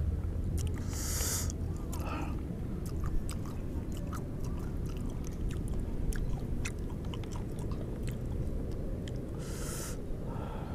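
Close-miked chewing of juicy Sunkist orange segments, with many small wet mouth clicks and two brief hisses, about a second in and near the end. A steady low rumble runs underneath.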